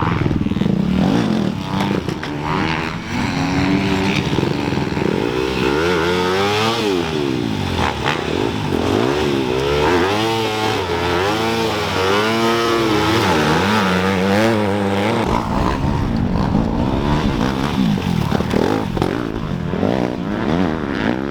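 Several dirt bike engines being ridden hard in an off-road race, their pitch rising and falling with throttle and gear changes, overlapping one another.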